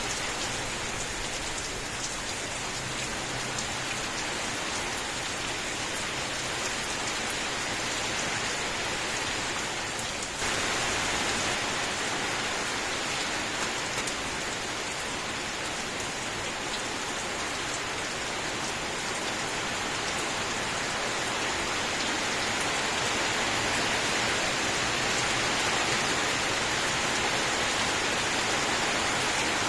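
Steady rain falling, a dense even hiss with scattered drop ticks. About ten seconds in the sound turns abruptly a little louder and brighter, as at an edit between recordings.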